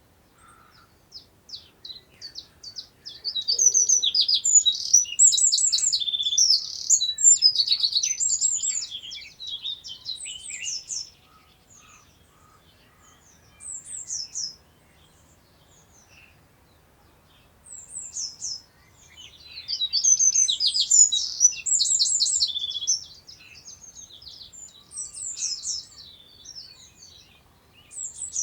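A songbird singing: two long bursts of fast, high trilling song, the first about eight seconds long starting a few seconds in, the second shorter, around two-thirds of the way through, with short phrases between them.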